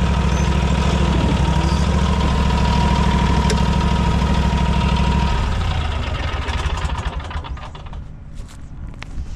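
An engine runs at a steady idle, then its note stops about five seconds in and the sound dies away, leaving a few scattered clicks.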